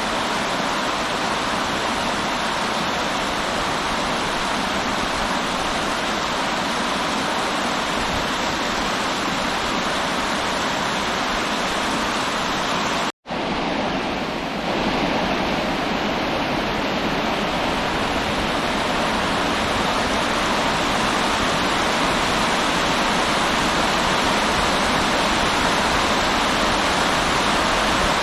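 Steady rushing of river water. About halfway through it cuts out for a split second and comes back slightly changed.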